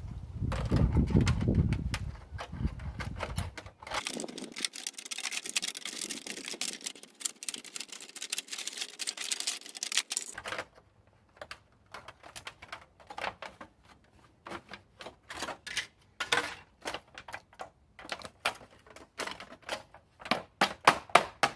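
Thin sheet metal being cut and worked by hand over a wooden form: a dense run of quick clicks and crinkling, then separate sharp taps that come faster and louder near the end as the metal is bent and tapped into shape.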